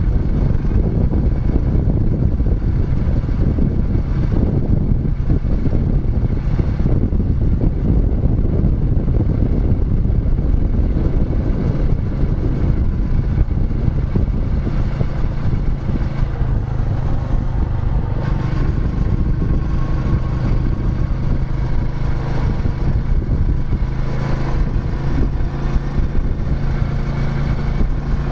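Royal Enfield Meteor 350's 349 cc single-cylinder engine running as the motorcycle is ridden, its thumping exhaust note loud and continuous, settling into a steadier, even tone in the last third.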